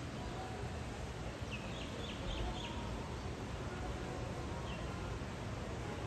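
A small bird gives a quick run of five or six short high chirps about a second and a half in, then one more chirp near the end, over a steady low outdoor rumble.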